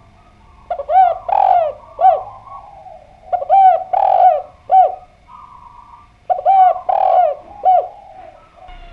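Spotted dove (derkuku) cooing: three call phrases of three or four notes each, about three seconds apart.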